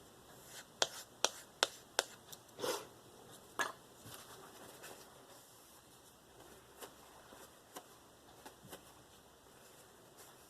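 Knife blade being stropped on a balsa strop loaded with diamond paste: a run of sharp light clicks about every 0.4 s, then a couple of brief rubbing, handling sounds, then faint scattered ticks.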